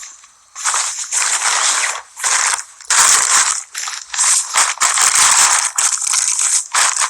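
Bags and belongings rustling and crinkling in loud, irregular bursts as a diaper bag is packed.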